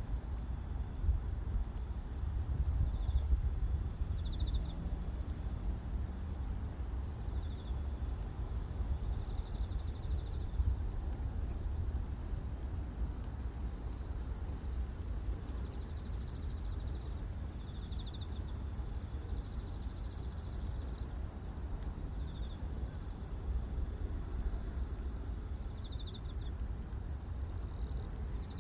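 Grass insects calling: one steady high-pitched trill and another chirping in even pulses about twice a second, over a low rumble.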